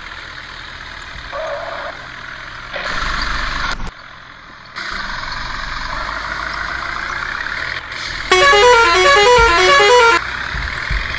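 Vehicle running with road noise, then about eight seconds in a multi-tone musical horn plays a quick stepped tune for about two seconds.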